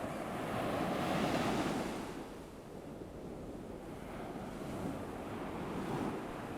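Ocean waves washing onto a shore: one wave swells and breaks in the first two seconds and draws back, then a softer one builds near the end.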